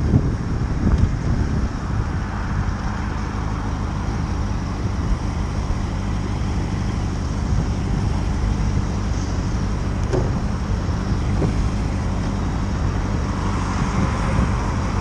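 Motorcycle engine running at a steady pace, with road and wind noise.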